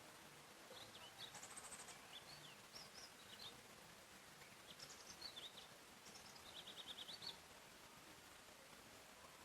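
Faint songbird song over a steady background hiss: two spells of short high chirps and whistles, the second ending in a quick trill of repeated notes.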